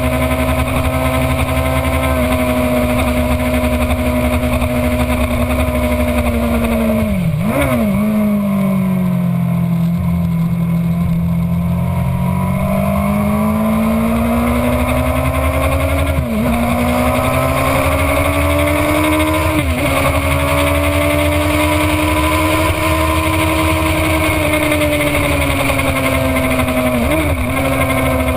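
Sport motorcycle engine running hard on track, heard from the bike's own onboard camera with wind rush. The engine note rises and falls, and dips sharply four times at gear changes. After the first, around a quarter of the way in, the note sits lower and climbs slowly back up.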